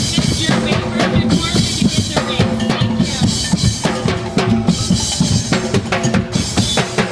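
Drumbeater ensemble playing: bass drums and snare drums beating a fast, steady marching rhythm, with held pitched notes carrying a melody over the drums.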